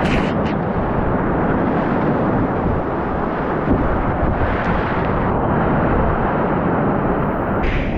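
Loud, steady rush and low rumble of whitewater, with buffeting on the camera's microphone.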